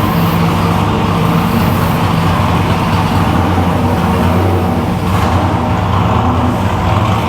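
A 1961 Ford gasser truck's V8 engine running loud at a steady speed on chassis dyno rollers, its pitch holding level rather than sweeping up.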